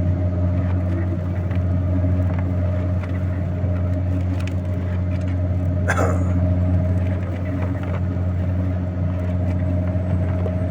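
Vehicle engine droning steadily at an even pitch, heard from inside the cab, with one short falling squeak about six seconds in.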